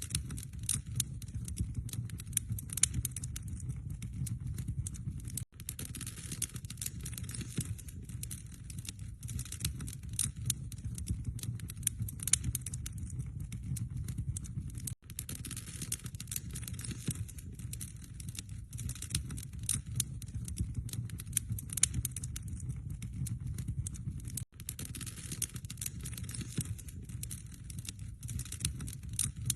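Wood fire crackling, with dense sharp pops and snaps over a low rumble of burning logs. The sound drops out briefly three times, about every nine to ten seconds.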